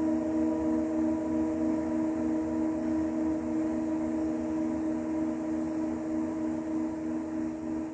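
A struck bell ringing on, several steady pitches sounding together with a slow wavering pulse in the low tone, gradually fading.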